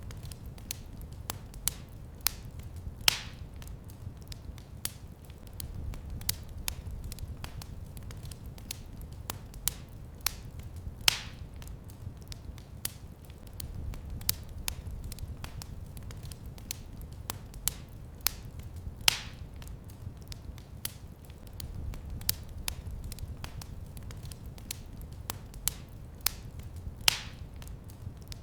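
Wood fire in a fireplace crackling steadily over a low rumble, with a sharper pop about every eight seconds.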